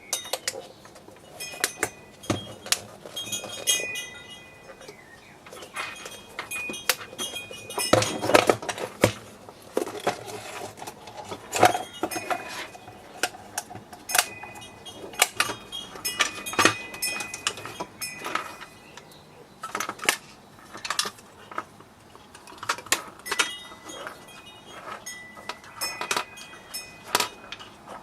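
Metal tools and small metal parts clicking, clinking and knocking irregularly, some strikes leaving a brief high metallic ring, as the coffee machine is worked apart by hand.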